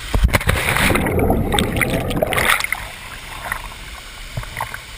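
Water splashing and churning, loud for about the first two and a half seconds, then settling to the steady rush of a waterfall with small scattered splashes.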